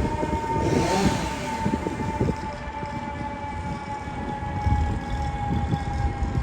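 Fire engine's siren sounding one steady tone that slowly falls in pitch, over a low rumble of traffic and vehicle noise.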